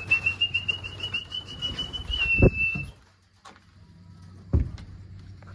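A person whistling one long note, held steady with a slight warble for about three seconds, as a keeper whistles racing pigeons in to the loft. Two thumps follow, about two seconds apart.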